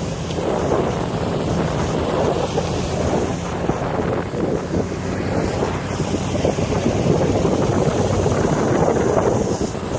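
Wind buffeting the microphone, a loud uneven rushing that rises and falls without pause.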